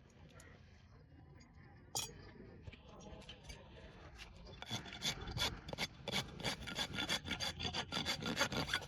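A farrier's rasp filing a horse's hoof in rough, repeated strokes, about three a second, starting about halfway in. Before that it is fairly quiet apart from a single knock about two seconds in.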